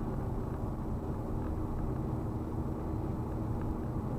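Steady road and engine rumble heard inside a car's cabin while driving on a freeway.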